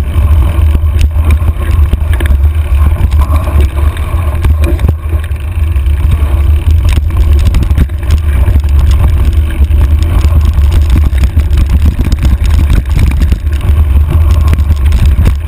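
Wind buffeting the microphone of a handlebar-mounted camera on a mountain bike riding down a rough trail: a heavy, steady low rumble with frequent small clicks and rattles from the bike over the ground.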